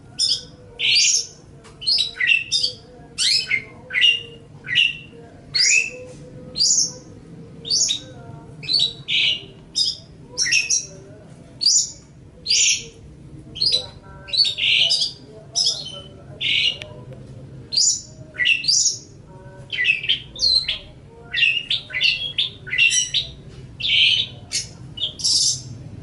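Long-tailed shrike (cendet) song: a long chattering run of short, sharp, high notes in quick succession, many sweeping down in pitch, with brief gaps between phrases.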